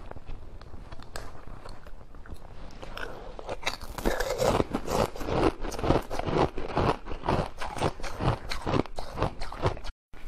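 Ice being bitten and chewed: a rapid run of sharp, crackly crunches, fainter at first and louder and denser from about four seconds in, breaking off briefly near the end.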